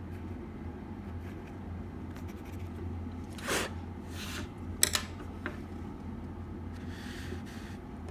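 Crunchy slime being worked by hand: a few short squishing, crackling noises and one sharp pop about five seconds in, over a steady low hum.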